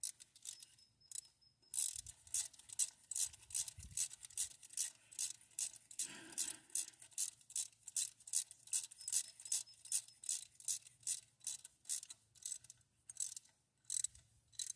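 Hand ratchet wrench being cranked, its pawl clicking in a quick steady run of about three clicks a second that starts about two seconds in.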